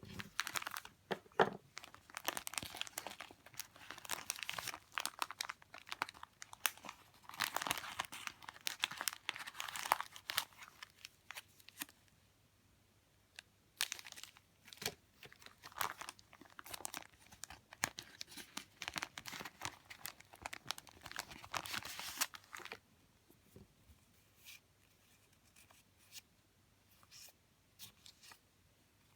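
Paper and plastic wrapping crinkling and rustling as it is handled, with tearing-like scrapes, in two long stretches. After that there are only a few light clicks and taps near the end.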